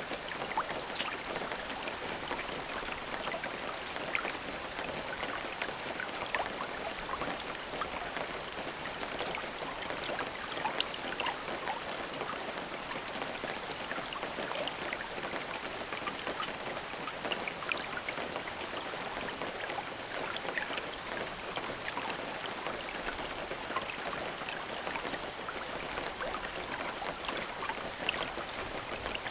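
Steady rain with many individual drops pattering on a surface.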